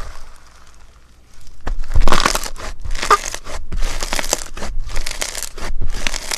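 Slime being squeezed and pressed by hand: quiet at first, then from about a second and a half in a run of five or six crisp, noisy squishes in quick succession.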